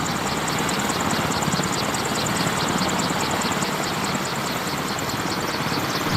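Military helicopter running with its rotors turning: a steady rush of turbine and rotor noise with a fast, even pulsing.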